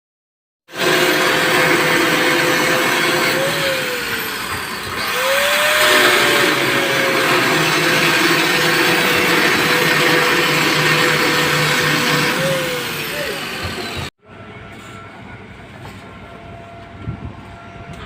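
Stick-welding arc crackling and hissing steadily, with a machine hum underneath that shifts in pitch a few times; it starts abruptly and cuts off suddenly about fourteen seconds in, leaving quieter background with a few knocks.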